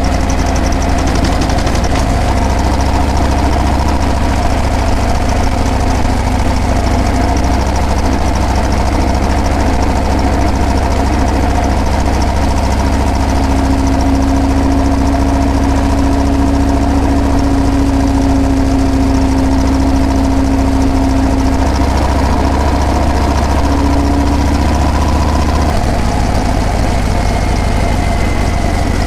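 Harley-Davidson Breakout's V-twin engine and exhaust running steadily, a loud, even, low sound.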